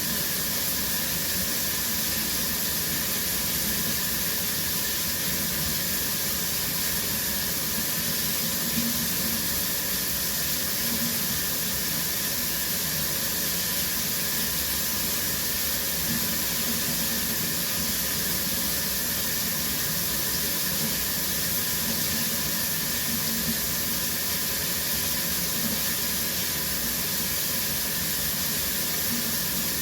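Shower water running steadily: a continuous spray hiss from the water falling.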